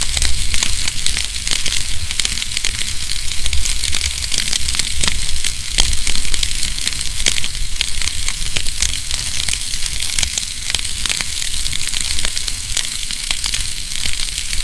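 Wood fire burning in a fireplace: a steady hiss with many small, irregular crackles and pops and a low rumble underneath.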